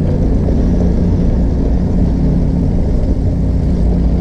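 Motor trike engine running steadily, a low rumble.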